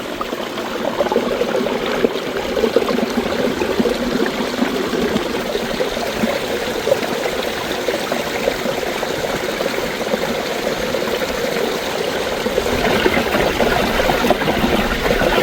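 Garden pond waterfalls percolating under sheets of ice: water gurgling and bubbling steadily beneath the ice, full of small irregular pops and trickles. It grows a little louder and brighter near the end.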